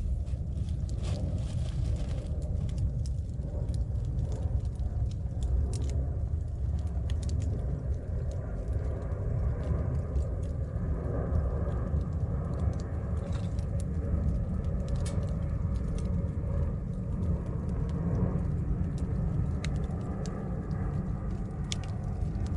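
Wood candle of upright thin logs burning, with scattered sharp crackles and pops of the burning wood over a steady low rumble.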